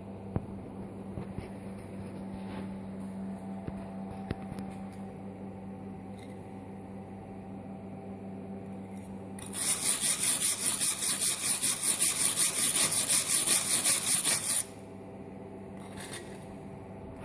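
DC TIG arc on stainless steel from a pulse-capable inverter welder, struck about halfway through. It makes a loud hiss that pulses several times a second for about five seconds, then cuts off sharply. Under it the welding machine gives a steady low hum.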